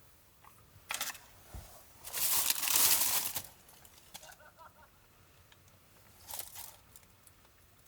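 Rustling and crinkling of something being handled: a short burst about a second in, a longer, louder one from about two to three and a half seconds in, and a brief one near six and a half seconds.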